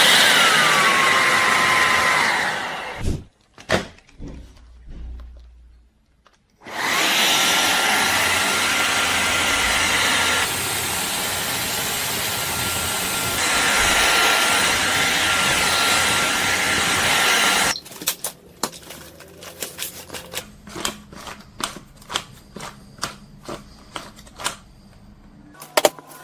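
Shark cordless stick vacuum's motor running with a high whine that drops in pitch and then stops about three seconds in. It starts again near seven seconds with a whine rising to a steady pitch and switches off after about ten seconds. After that come a run of scattered clicks and knocks.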